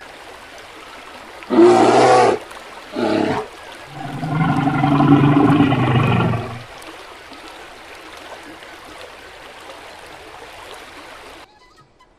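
A large animal calling three times, a short call, a shorter one, then a longer call of about two and a half seconds, over a steady rushing noise like running water that cuts off near the end.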